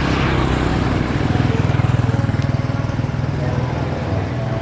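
A small engine running steadily close by, with a fast, even firing pulse.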